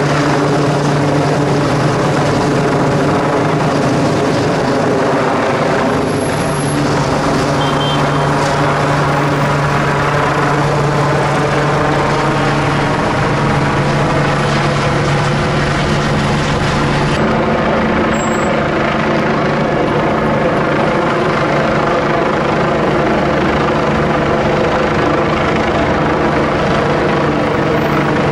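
Rescue helicopter hovering for a winch hoist, its rotors and turbine giving a loud, steady drone of constant pitch, shifting slightly about two-thirds of the way through.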